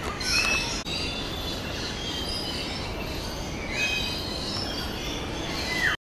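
Birds calling: a few high squealing calls that slide down in pitch, with chirping over a steady background hiss.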